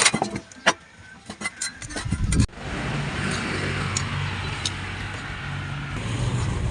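A few sharp clicks and knocks, then about two and a half seconds in a sudden switch to a steady, engine-like low hum with a hiss over it, as of a motor vehicle running.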